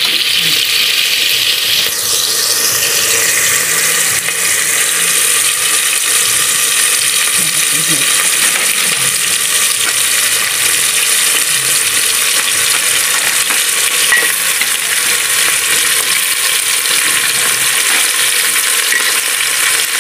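Steady sizzling of crabs sautéing in hot oil in an aluminium pot.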